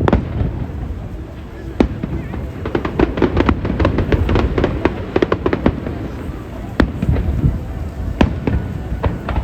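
Aerial fireworks bursting: a sharp bang at the start and another about two seconds in, then a fast run of crackling pops through the middle, and a few separate bangs near the end.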